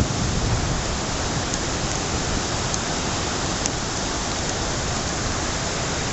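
Steady rushing noise of typhoon weather, with wind, rain and surf blending into one even hiss and a few faint ticks.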